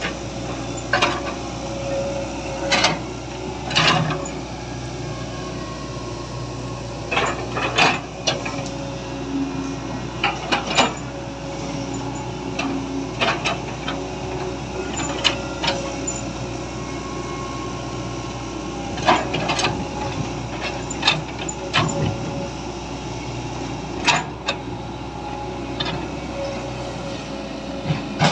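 Irregular clicks and knocks of hard toy pieces being handled and set down, over a steady hum.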